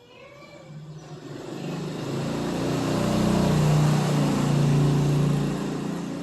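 A motor vehicle passing by, its engine hum and road noise swelling over a few seconds, then fading.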